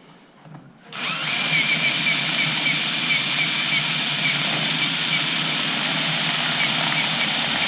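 Cordless drill starting about a second in and running steadily with a high whine, boring a hole through the composite wing skin in a drilling jig.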